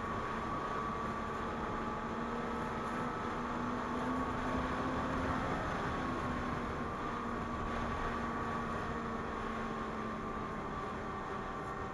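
Two-stroke snowmobile engine (Ski-Doo MXZ 600 Carb Sport) running steadily, a constant droning tone whose pitch drifts slightly up and down, over a hiss of noise.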